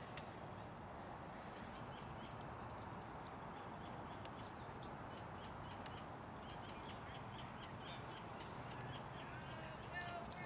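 Small birds chirping in short, rapid high notes over a steady outdoor background hiss.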